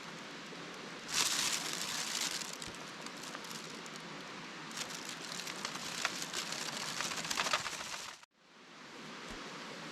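Campfire burning with a steady hiss and scattered crackles and pops, louder for a second or so near the start. A little after eight seconds it cuts off abruptly, and a smoother, even hiss fades back in.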